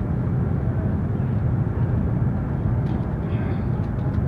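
Steady low rumble and rush of a Chinese CRH high-speed train running at speed, heard from inside the passenger car.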